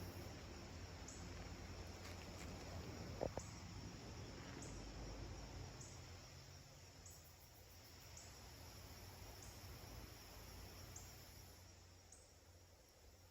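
Faint forest ambience: a high, short insect-like chirp repeats about once a second over a low steady rumble. A single soft click comes about three seconds in.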